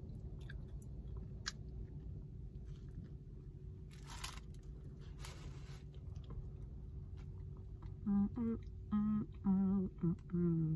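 Close-up chewing and wet mouth clicks of someone eating, over a steady low hum. In the last few seconds come several short, hummed vocal sounds made while chewing.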